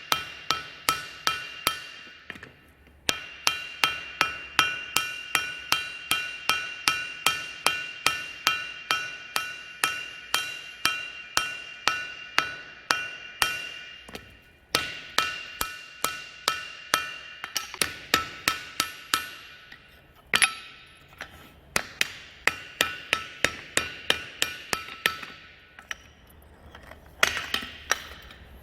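Steady hammer blows on steel over an anvil during hand forging, about three strikes a second with a metallic ring after each, stopping briefly a few times before starting again.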